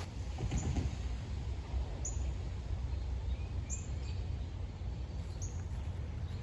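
Small birds chirping outdoors: short high calls, each falling in pitch, repeating every second or two, over a steady low rumble.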